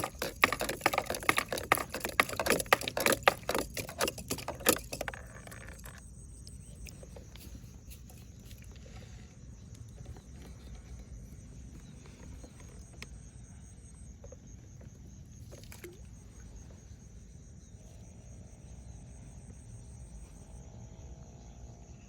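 Rapid, loud clicking and rattling for about five seconds, then quieter low rumble with a faint steady high insect-like hum, the evening chorus by the lake.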